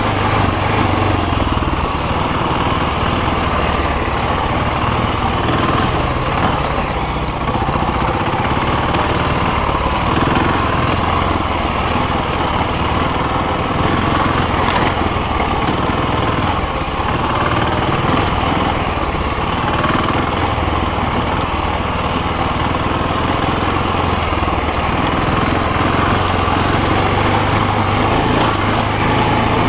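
BMW G650X Challenge motorcycle's single-cylinder engine running steadily as the bike is ridden, without big revs.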